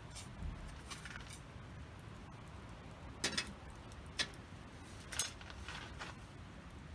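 Wood campfire crackling, with a few sharp pops about three, four and five seconds in over a low steady rumble.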